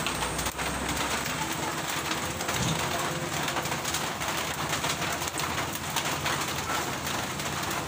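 A bird calling, likely a dove cooing, over a steady hiss of outdoor noise with scattered light clicks.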